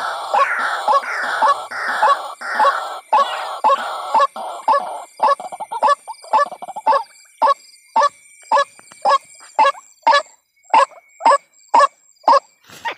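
White-breasted waterhen calling, a lure recording of its call: a short croaking note repeated about twice a second. For the first few seconds the notes are harsh and run together; after that they come as cleaner, separate calls with quiet between them.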